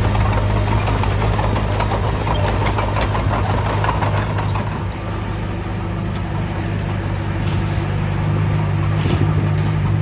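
Diesel engine of a construction machine running steadily, with light clatter and clicks through the first half.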